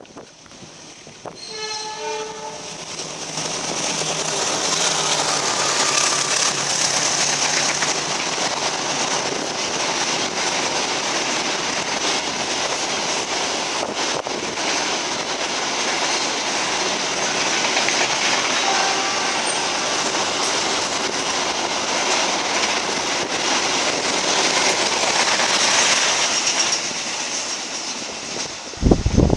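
A train horn sounds briefly about a second in, then a train passes close by for about twenty-five seconds: a loud, steady rush of wheels running on the rails that eases off near the end.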